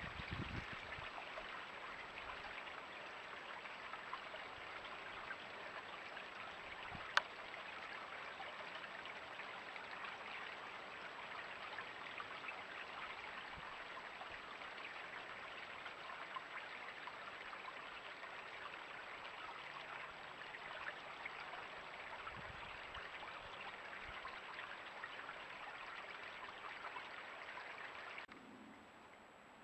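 Steady rushing water noise with no distinct events except one sharp click about seven seconds in. The sound drops away abruptly just before the end.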